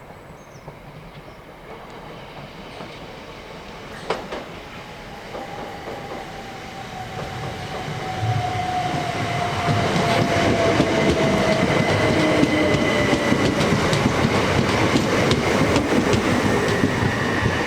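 Class 375 electric multiple unit arriving at the platform: its running noise builds up and becomes loud about ten seconds in. A whine slides steadily down in pitch as the train slows, with wheels clacking over the rail joints.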